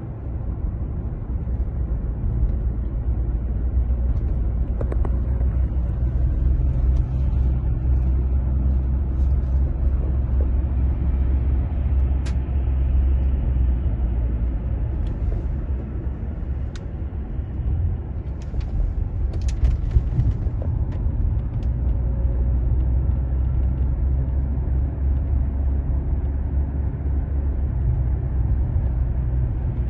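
Car driving on the road: a steady low rumble of road and running noise, with a few light clicks and ticks scattered through it.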